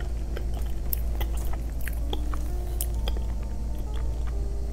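Close-up chewing with wet mouth clicks as soft chocolate mousse cake is eaten from a spoon, over a steady low hum.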